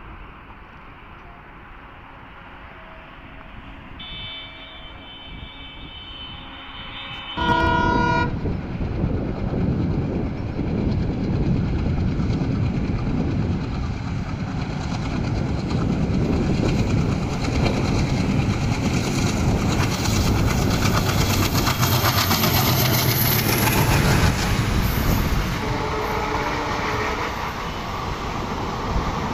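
A passenger train's horn sounds a short blast about seven seconds in, after a faint quiet start. The loud, steady noise of the locomotive and coaches running past follows, with wheels clicking over the rails, and a lower horn note sounds briefly near the end.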